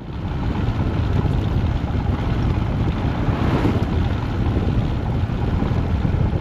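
Wind buffeting the microphone of a Royal Enfield Himalayan motorcycle under way, a loud, rough, steady rush heavy in the low end, with the bike's running noise underneath.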